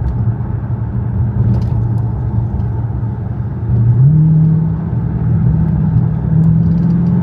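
Dodge Challenger Scat Pack's 392 HEMI V8 running steadily under way. About four seconds in, the revs step up and hold at a higher, slightly louder pitch.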